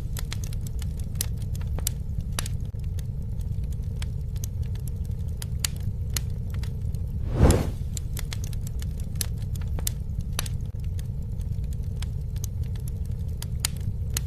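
Campfire burning: a steady low rumble of flames with many sharp crackles and pops from the wood, and one louder whoosh-like burst about seven and a half seconds in.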